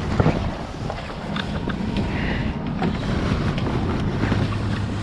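Wind rumbling on the microphone over a vehicle running along, with a few light knocks.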